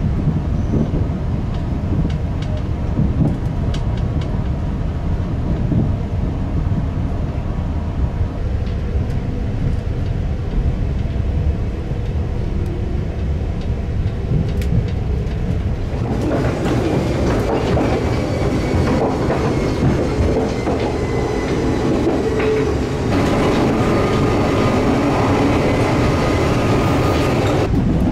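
Running noise heard inside the Limited Express Yakumo, a 381-series electric train, as it rolls along: a steady low rumble of wheels on the track. About two-thirds of the way through it becomes fuller and brighter, and it steps up again a little louder near the end.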